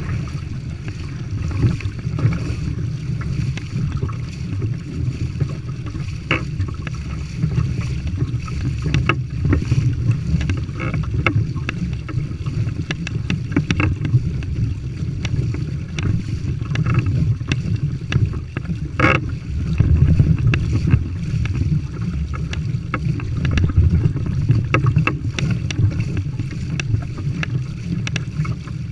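Steady low wind rumble buffeting the microphone on a sailing kayak in an 8–10 mph breeze, with a few short clicks scattered through it.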